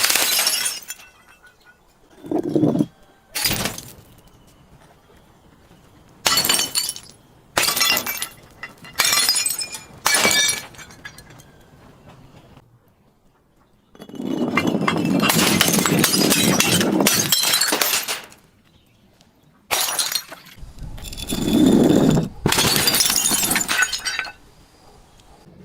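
Glass bottles being smashed and crushed again and again, each break followed by tinkling shards. About halfway through, a longer stretch of continuous crunching glass lasts several seconds, and a second one comes near the end.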